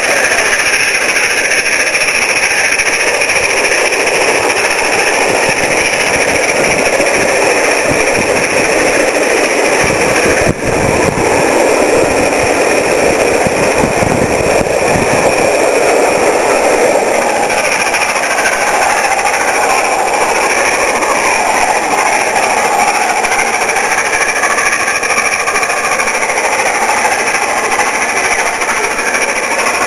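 Peppercorn A1 Pacific steam locomotive 60163 Tornado working hard up a bank, then its 13-coach express rushing and clattering past in a loud, continuous din.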